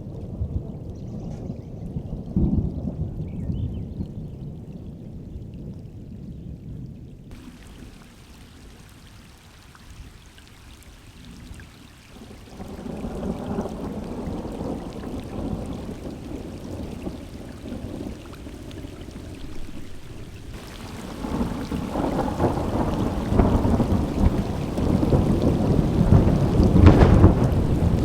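Rolling thunder rumbling over rain. The thunder swells about halfway through, then builds into a long, loud roll that peaks near the end.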